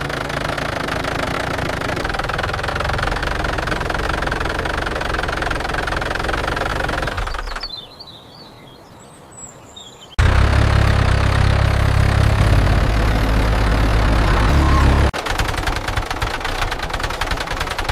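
Tractor engine running steadily. It drops away for a couple of seconds about eight seconds in, then returns with a heavier low rumble. Near the end it turns to a fast, even rattling.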